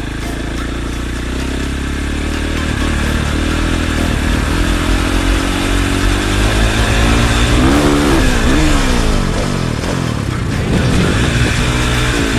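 Dirt bike engine revving hard, its pitch climbing for several seconds to a peak about eight seconds in, then falling away and climbing again near the end.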